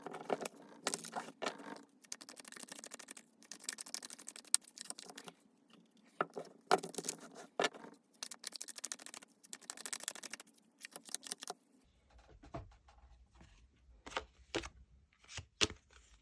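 Tarot cards being shuffled and handled, a quick run of papery scraping and tapping. About twelve seconds in it turns to a few separate sharp taps over a low hum.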